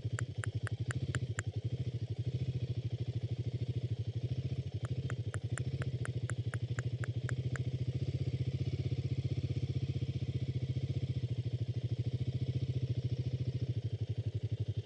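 Royal Enfield Himalayan 452's single-cylinder engine running steadily at a low, even speed. Twice a run of rapid, high, light ticks, about four a second, rides over it.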